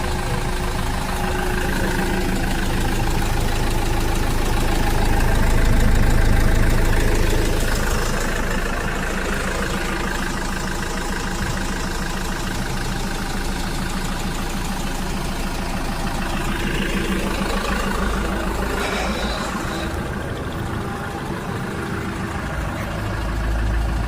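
Diesel box truck engine idling steadily.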